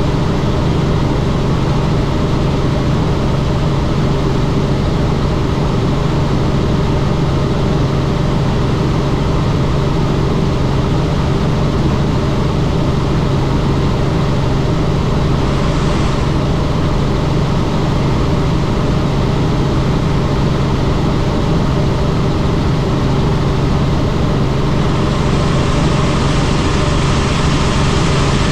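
Helicopter in flight heard from on board: a loud, steady drone of engine and rotor with a strong low hum under a rushing hiss. The hiss grows brighter briefly about halfway through and again near the end.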